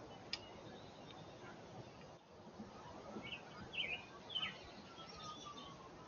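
A few short, high songbird chirps in quick succession a little past halfway, over a steady outdoor background hiss, with a single sharp tick just after the start.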